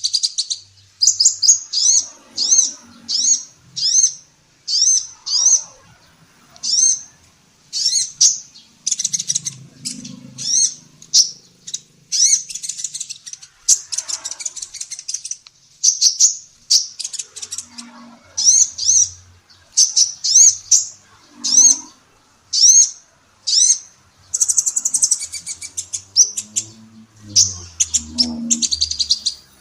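Female sunbird calling: a fast, unbroken series of short, high, sweeping chirps, a couple each second, with a few faint low thumps now and then.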